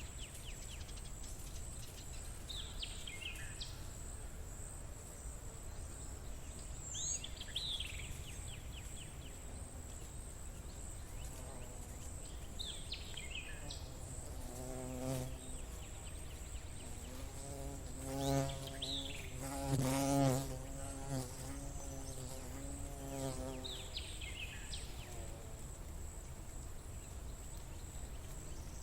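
A flying insect buzzing close by from about halfway through, swelling and fading as it moves about, loudest twice a little after the middle. Under it runs a steady high-pitched insect whine, and a bird gives a short falling call every few seconds.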